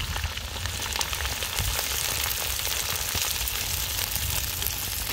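Chopped vegetables sizzling and crackling in hot oil in an aluminium kadhai as they are tipped in. The sizzle is steady and dense, with many small pops.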